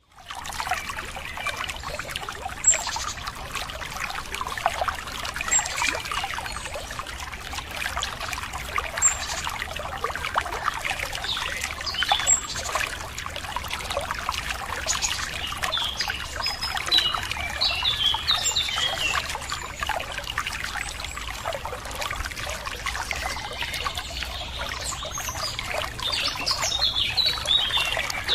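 Running water trickling and splashing, with birds chirping over it: single high pips every few seconds, then runs of quick chirps about halfway through and near the end.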